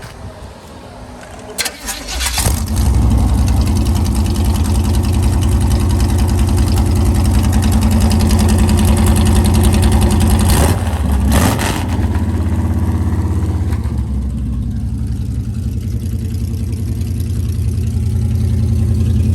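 A T-bucket hot rod's engine on a cold start: it cranks and catches about two seconds in, then settles into a loud, steady idle. It eases slightly lower after about fourteen seconds and picks up again near the end.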